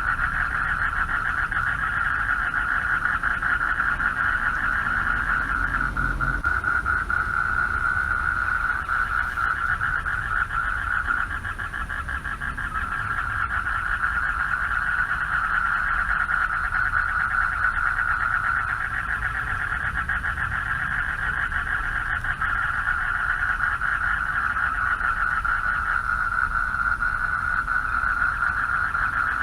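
Chorus of male frogs giving mating calls, a dense, steady, rapidly pulsing trill that eases off briefly around eleven seconds in.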